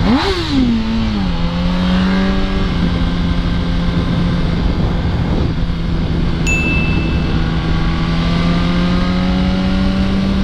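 2005 Yamaha R1's inline-four engine heard from the rider's helmet camera: a quick rev up and back down at the start, then a steady engine note that rises slowly toward the end, over wind noise. A short high beep sounds once about six and a half seconds in.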